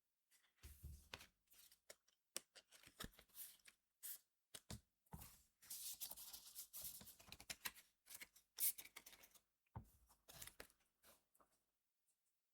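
Trading card booster pack and its cards being handled: quiet crinkles, clicks and snaps of foil and card, with a longer, denser rustle in the middle.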